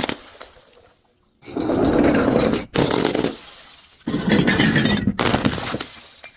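Glass being crushed, crunching and shattering twice, each time for about a second before fading away.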